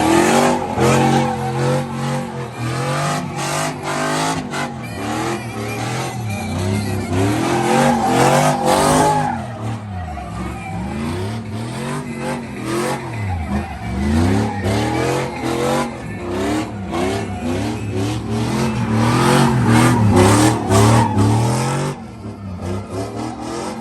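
A truck's engine revving hard over and over during a burnout, its pitch climbing and falling every second or two, with a haze of tire noise on top. The revving drops away near the end.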